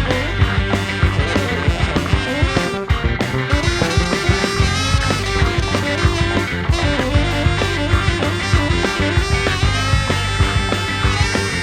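Live band playing an instrumental passage without vocals: drums, bass, electric guitar, saxophone and keyboards together over a steady beat.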